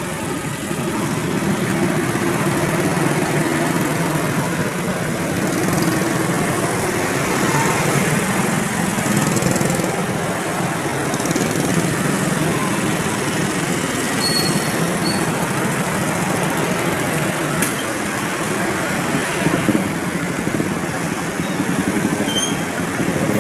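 Train passing at speed: a steady, loud rumble and rush of wheels on rails that runs on without a break.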